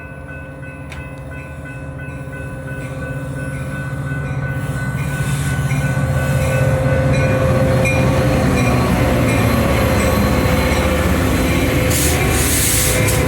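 Train approaching and growing steadily louder over about seven seconds, then running close by with a steady heavy rumble. There is a short burst of hiss about twelve seconds in.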